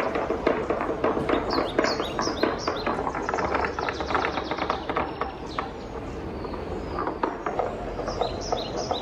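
Wooden balls rolling and clattering down a wooden marble run: a dense stream of clicks and knocks. Short runs of high, quick-stepping ringing notes come about two seconds in and again near the end.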